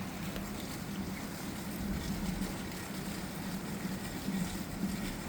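Heavy thunderstorm rain falling steadily, a constant hiss with scattered faint ticks, over a low wavering hum.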